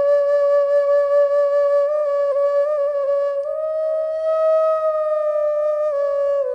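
Background music: a slow solo melody on a flute-like wind instrument, with long held notes. The pitch steps up about three and a half seconds in, falls back near the end, and the note then stops.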